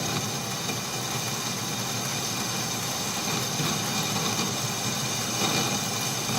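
Atlas metal lathe running while a small boring bar cuts into hot-rolled mild steel: a steady machine hum with a thin high whine over it. The slender boring bar is flexing in the cut.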